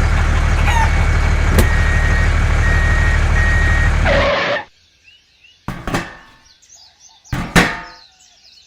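A small motor running with a steady drone, with three short beeps over it, cutting off abruptly about four seconds in. Then two short, sharp sounds about a second and a half apart in near quiet.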